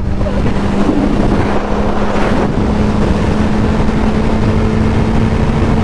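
Yamaha R1 motorcycle engine holding a steady note at a constant cruising speed, under a heavy, even rush of wind noise over the microphone.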